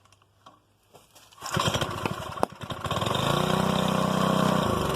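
Old Briggs & Stratton 5 hp single-cylinder four-stroke tiller engine, primed with octane booster after years of sitting, firing about a second and a half in. It coughs unevenly at first, then catches and runs up to a steady speed, slowing near the end.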